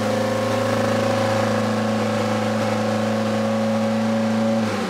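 Mitsubishi Evo 8's freshly rebuilt 4G63 turbo four-cylinder running at a steady high idle, then switched off at the very end, its pitch dropping as it winds down. The high idle is the sign of an air leak, which turns out to be an unconnected hose.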